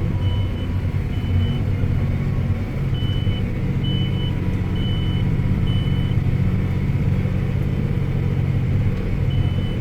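John Deere 8225R tractor running steadily, a low hum heard from inside the cab. Short high electronic beeps sound repeatedly over it, about once a second for a stretch, then once more near the end.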